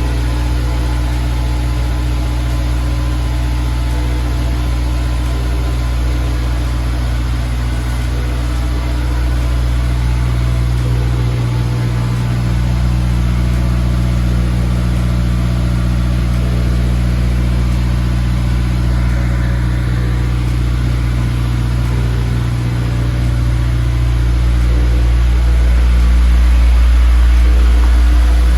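Honda S2000's four-cylinder engine idling steadily through its newly fitted aftermarket exhaust, growing a little louder near the end.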